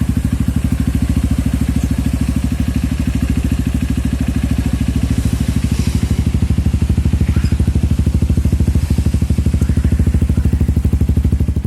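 Honda CRF motorcycle with a Gordon M1 aftermarket exhaust idling steadily, the exhaust giving a loud, even run of low pulses.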